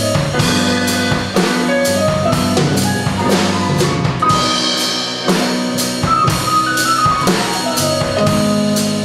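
Jazz trio of keyboard, bass and drums playing: sustained keyboard chords and melody notes over a walking bass line, with the drum kit keeping a steady beat on cymbals and drums.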